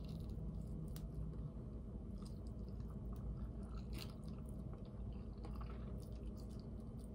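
A person biting and chewing pieces of chicken, with irregular short mouth clicks through the chewing.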